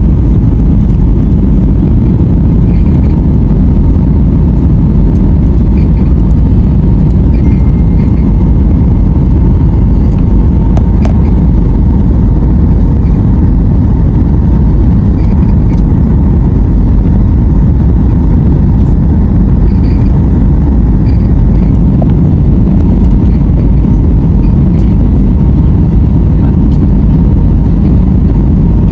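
Airliner cabin noise: the steady, loud rumble of the engines and airflow heard from inside the passenger cabin, with a faint steady whine in it.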